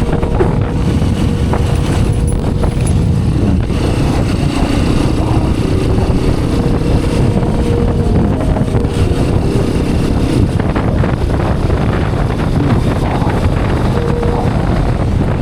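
Hero Xpulse 210 motorcycle's single-cylinder engine running steadily under way, with wind noise on the microphone.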